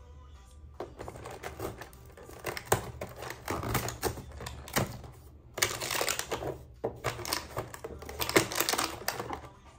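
Rapid crackling and clicking of packaging being handled and opened, in two spells with a brief break a little past halfway.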